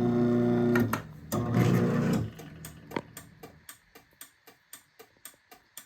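Craftsman 1/2 hp garage door opener humming loudly in two short spells of about a second each, then clicking steadily about twice a second. The clicking goes with the opener light blinking 10 times, the signal that the safety sensors are blocked or out of alignment.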